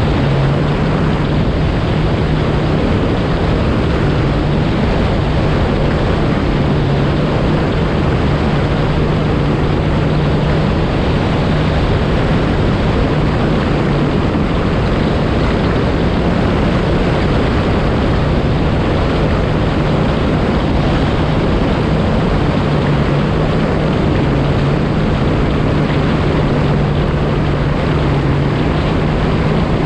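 A Yamaha FX SVHO personal watercraft's supercharged four-stroke engine running at a steady cruising speed, its pitch holding constant, under heavy wind rush on the microphone and water noise from the hull.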